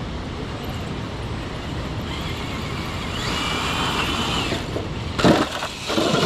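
Traxxas TRX-6 RC crawler's electric motor whining under load as the truck strains to climb a wet rock. Two loud sharp knocks come in the last second or so.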